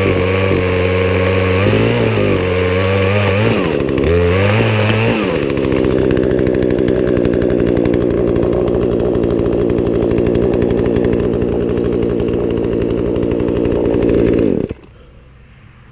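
Poulan Pro two-stroke chainsaw running, its engine speed dipping and recovering twice in the first five seconds, as under cutting load, then held steady at high revs. It cuts off suddenly about a second before the end.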